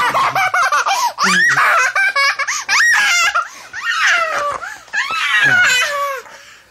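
A baby laughing hard while being tickled: high-pitched belly laughs and squeals in quick bursts, tailing off near the end.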